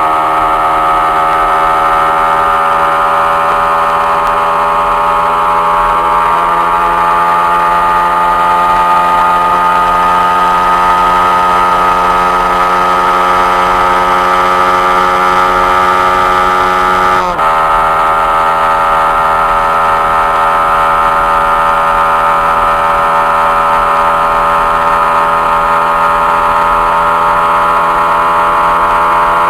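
Yamaha MT-15's 155 cc single-cylinder engine running hard at high, steady revs on a top-speed run. Its pitch sags slowly, then breaks briefly a little past halfway and carries on slightly lower.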